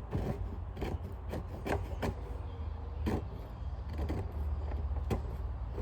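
Scattered clicks and knocks from parts of a Sanitaire vacuum and its dirt-filled bag being handled, over a low steady hum.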